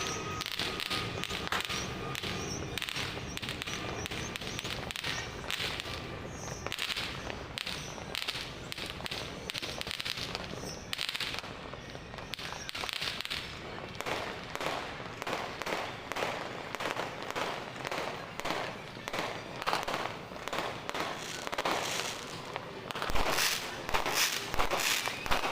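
New Year fireworks and firecrackers going off, a continuous run of bangs and crackling that grows denser and louder near the end.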